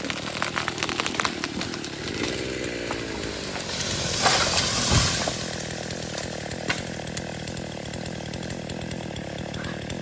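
Large pine tree coming down after its felling cut: wood cracking and snapping in the first few seconds, then a rush of branches and leaves through the canopy and a heavy thud about five seconds in as the trunk hits the ground. A chainsaw runs underneath.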